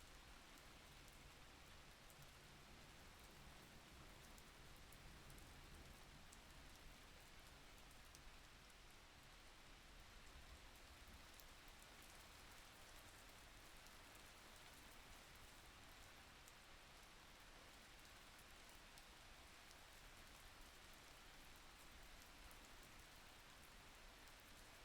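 Faint steady rain: an even hiss of falling drops, with scattered tiny drip ticks.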